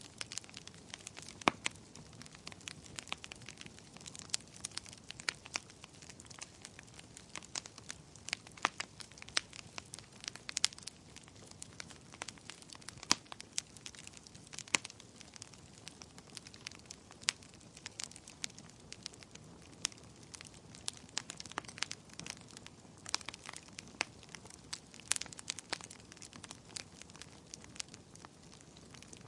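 Bonfire crackling, with frequent sharp, irregular pops and snaps over a soft, steady hiss of burning wood.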